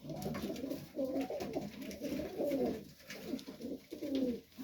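Pigeons cooing in a loft, several warbling coos in a row, each about a second long with short gaps between.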